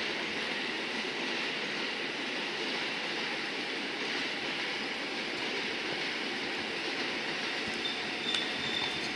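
E4 series Max bilevel Shinkansen train rolling slowly into a station, a steady rumble and hiss from its running gear. A thin high squeal, typical of braking, joins in near the end.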